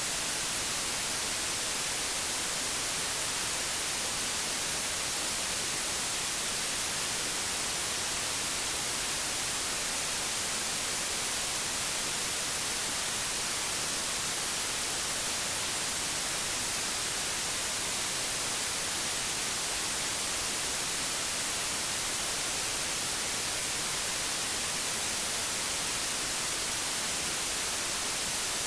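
Static from an untuned analogue television: a steady, even hiss, strongest in the highs.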